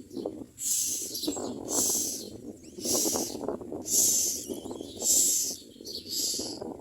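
Common myna nestlings begging for food with harsh, hissing screeches, repeated about once a second.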